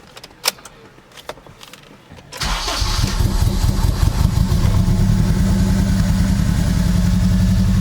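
A few light clicks, then about two and a half seconds in the Acura RSX's K-series four-cylinder engine fires and settles into a steady idle. It is the first start on freshly fitted 750cc injectors and a flex fuel kit, and it runs rich right after starting.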